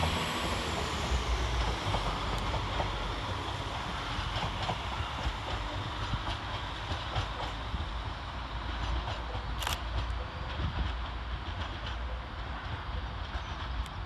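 Northern Class 195 diesel multiple unit pulling out of the station: a steady rumble of its engines and wheels, with wheels clicking over rail joints and a brief high squeak about ten seconds in.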